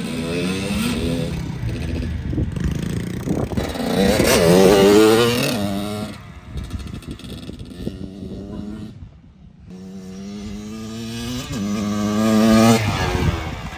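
Small dirt bike engine being ridden hard, revving up and falling back repeatedly as the rider works the throttle. The engine backs off briefly about two-thirds of the way through, then builds again to a loud peak near the end.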